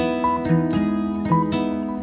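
Calm instrumental music: an acoustic guitar picking single notes in a slow, even arpeggio pattern, with each note ringing on.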